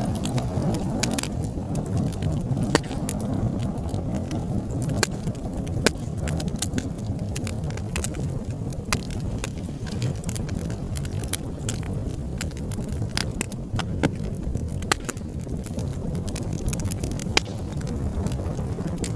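Wood fire crackling: many sharp irregular pops and snaps over a steady low roar of flames, with a few louder pops.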